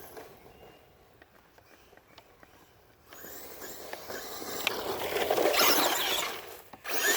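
Traxxas Rustler VXL RC truck driving: its brushless electric motor whines and its tyres scrape over the ground. Faint for the first three seconds, it then grows loud and drops out briefly near the end.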